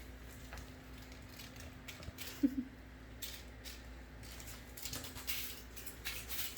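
Soft pattering and rustling of a dog and kittens at play, with one brief squeak about two and a half seconds in and more rustles near the end.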